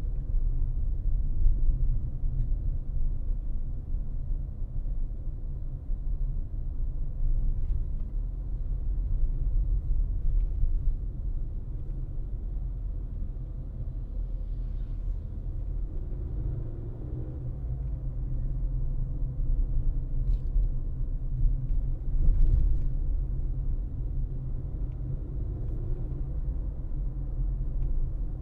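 A car driving: a steady low rumble of road and tyre noise, with a few faint clicks in the second half.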